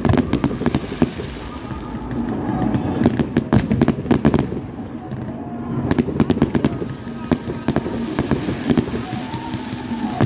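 Fireworks display: aerial shells launching and bursting, with volleys of sharp bangs and crackles coming in clusters every two seconds or so over a steady low background.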